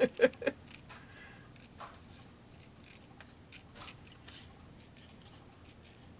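Scissors cutting paper: faint, irregular snips and paper handling, with a few louder snips in the first half second.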